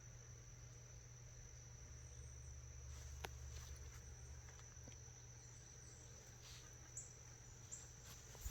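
Faint, steady high-pitched trill of crickets over near silence, with a low rumble underneath and a soft click about three seconds in.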